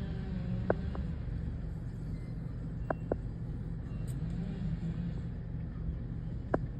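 Car engine idling, a steady low hum heard from inside the cabin. Five short sharp clicks sound over it: two about a second in, two near three seconds, and one near the end.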